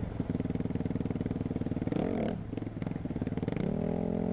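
Dirt bike engine under throttle, a 250 that is taken for a Suzuki RM-Z250, its note dipping and climbing about two seconds in and rising near the end.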